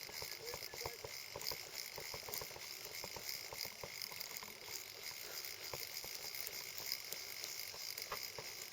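Faint, steady hiss of flowing river water, with many small irregular clicks and ticks over it.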